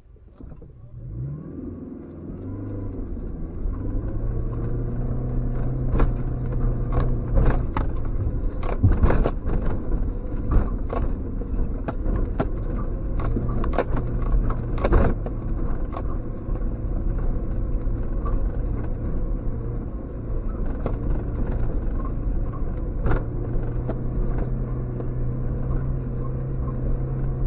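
Suzuki X-90's 1.6-litre four-cylinder engine pulling off and running steadily under load up a rough, rutted track, heard from inside the cabin. Over it come repeated knocks and clatters from the car working over the rough ground, thickest in the first half.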